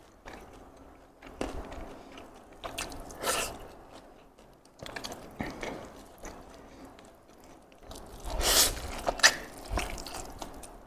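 Close-miked mukbang eating sounds: a mouthful of fried chicken and nasi lemak chewed in irregular wet clicks and crunches, with fingers picking through the food on the board. A louder burst of chewing comes about eight and a half seconds in.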